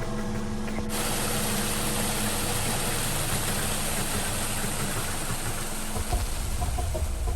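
An engine running steadily, joined about a second in by a loud steady hiss, with a low rumble coming in near the end.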